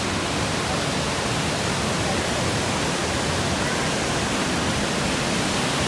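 Steady rushing hiss of a mountain waterfall, even and unbroken.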